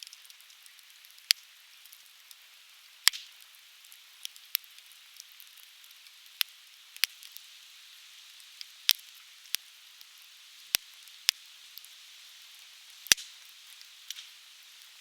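Softwood firewood burning in an open fire, crackling with sharp, irregular pops about once a second, the loudest about three seconds in and near the end, over a steady hiss.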